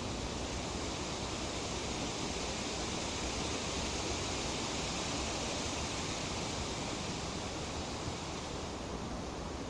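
Breeze rustling tree leaves as a steady hiss that swells with a gust and eases again near the end.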